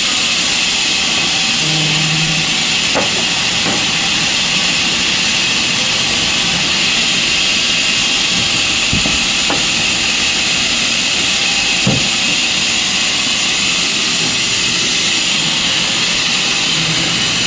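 Sawmill machinery running with a steady high hiss. A few sharp knocks break through, the loudest about twelve seconds in.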